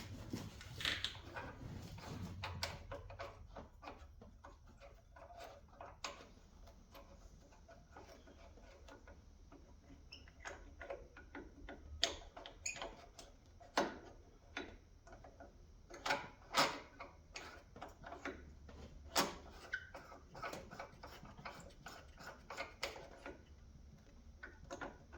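Scattered, irregular clicks and knocks of hand tools and metal parts being handled while working on a lawn tractor's starter area, a few louder clacks in the second half.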